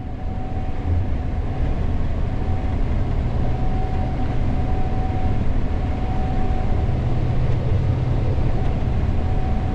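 Gleaner S98 combine running steadily while harvesting corn, heard from the operator's seat: a constant low rumble of engine and threshing machinery with a thin steady whine over it.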